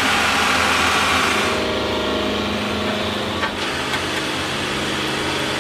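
Large truck engine running steadily, with a hiss that fades about a second and a half in.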